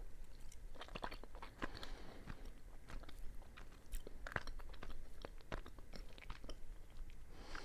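Close-up chewing of a soft mochi rice cake with bean paste filling: wet mouth clicks and smacks scattered irregularly.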